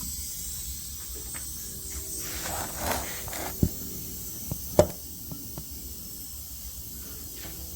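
A few sharp clicks and knocks of metal parts, the loudest about three and a half and five seconds in, with a short rustle before them over a steady hiss: a ring gear spacer and ring gear being set onto a Ford F-250 differential carrier.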